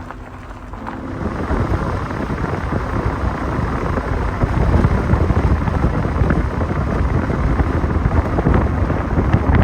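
Wind buffeting the microphone: a loud, uneven low rumble that swells about a second in, after a short music passage fades.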